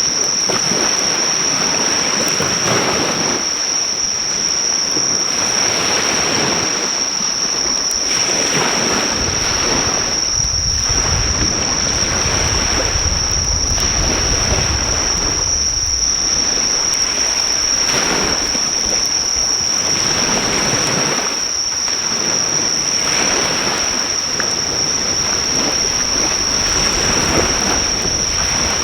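Ocean waves breaking on the shore in repeated surges every few seconds, over a steady high drone of insects calling. A few faint pops come from a driftwood fire.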